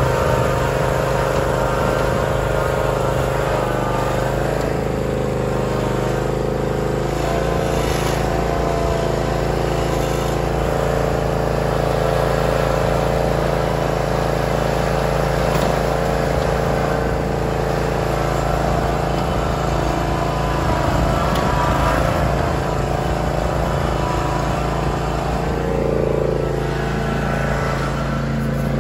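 John Deere Z320R zero-turn mower's engine running steadily under mowing, with a brief wobble in pitch near the end.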